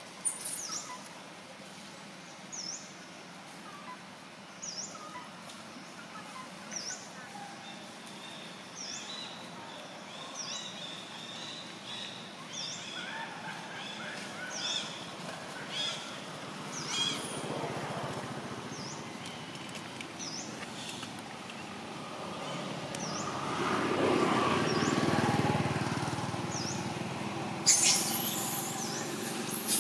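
A bird repeating a short, high chirp about every two seconds over outdoor ambience. Late on, a vehicle passes and grows louder, and a sudden loud hiss starts near the end.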